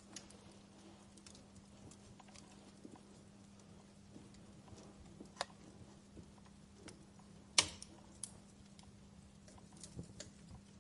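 Fireplace fire crackling: irregular small snaps and pops, with one sharper pop about two-thirds of the way through, over a faint steady hum.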